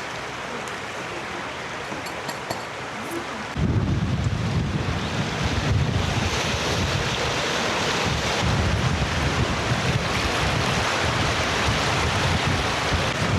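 Outdoor ambience of steady hiss with a few faint high chirps. About three and a half seconds in, wind starts buffeting the microphone: a louder, gusting low rumble with a rushing hiss.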